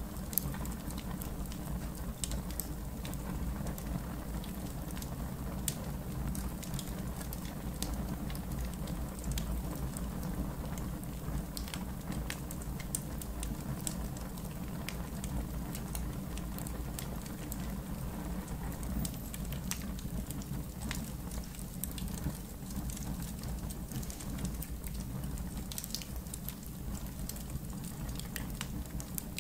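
Wood fire in a backyard fire pit crackling, with irregular sharp pops and snaps over a steady low rumble.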